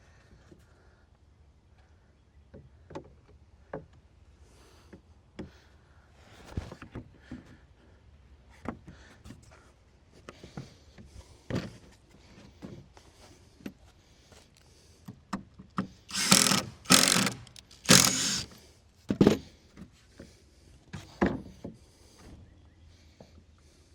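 Wooden deck boards and tools being handled: scattered light knocks and taps, then a few louder noisy bursts of about a second each, about two-thirds of the way through.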